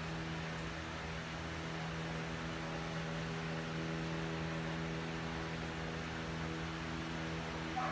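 Hunter 1886 Limited Edition ceiling fan running on low speed: a steady motor hum with a constant low tone over an even whoosh.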